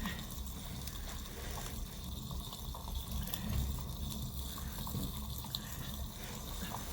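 Steady trickling, watery noise of liquid.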